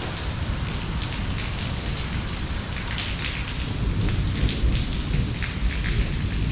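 Heavy rain falling steadily, with the sharp patter of individual drops striking close by over a deep low rumble. The rain grows a little louder and the nearby drop hits come more often about two-thirds of the way through.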